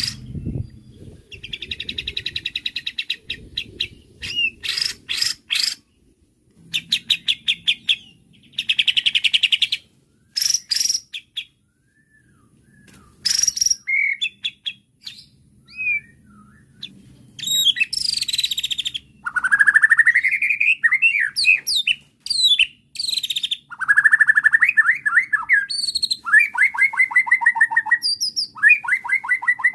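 White-rumped shama (murai batu) singing a long, varied song through its repertoire of mimicked phrases. It mixes rapid rattling trills, clear whistled notes, rising sweeps and fast chattering runs, with brief pauses between phrases.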